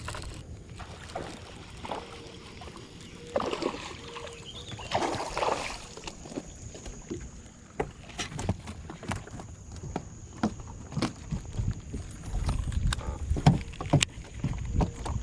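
Knocks, clicks and handling noise aboard a fishing boat, with two short rushing noises about three and five seconds in and a low rumble with louder knocks near the end.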